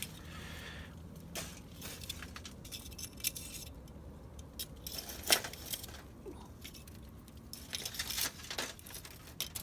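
Light clinks and rattles of charcoal and metal grill parts being shifted to raise a low fire bed closer to the food, with one sharper clink about five seconds in.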